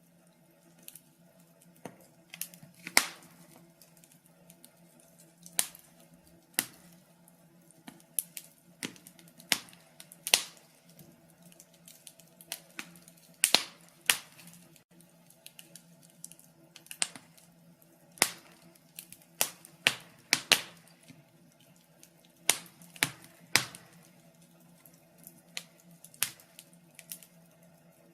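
Wood fire crackling in a fireplace: irregular sharp pops and snaps, a few of them louder, over a faint steady low hum.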